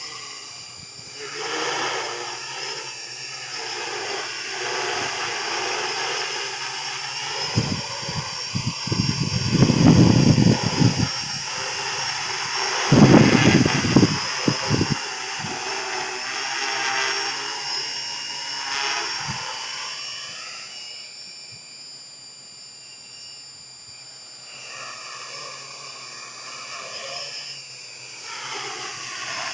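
Hexacopter's six electric motors and propellers whining, their pitch shifting as the craft holds against the wind. Wind buffets the microphone in heavy gusts twice mid-way, and the whine drops off for a few seconds near the end before coming back.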